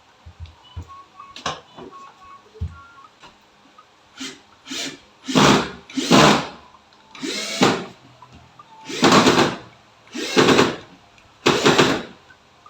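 Power drill run in a series of short bursts, about eight pulses roughly a second apart after a few quiet seconds of small clicks.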